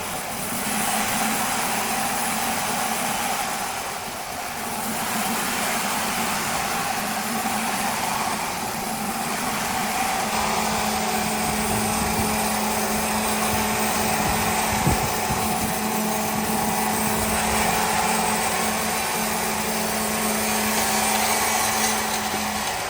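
Heavy machinery running steadily, with a noisy wash of sound. A steady low hum joins about halfway through and drops out near the end.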